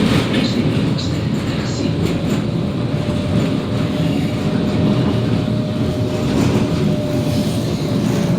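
Končar TMK 2200 low-floor tram running along the track, heard from inside the car: a steady rumble of wheels on rail with a faint, even whine held through it.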